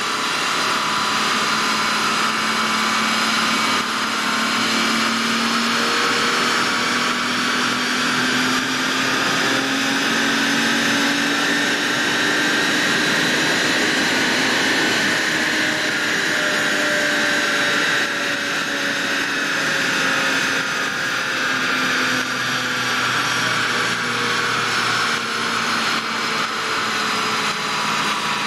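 Lamborghini Murciélago LP640's V12 running steadily through a Fabspeed sport-cat and X-pipe exhaust. Its pitch climbs slowly to about halfway, eases back and then holds level.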